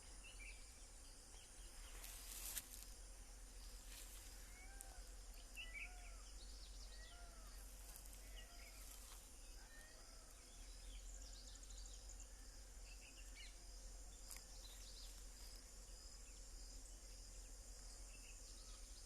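Faint morning countryside ambience: insects keep up a steady high-pitched shrill while birds call in short, repeated arching notes. A brief burst of noise comes about two seconds in.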